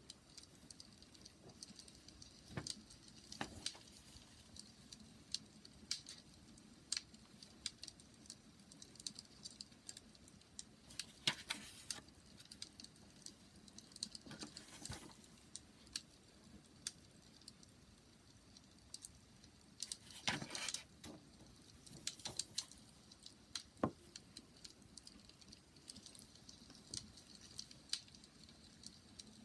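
Wood fire crackling: scattered sharp pops and snaps at irregular intervals, with a quick cluster of them about twenty seconds in.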